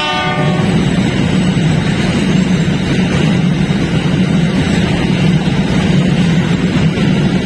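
Diesel locomotives passing close by: a loud, steady engine drone with a low hum. A train horn sounds at the start and cuts off under a second in.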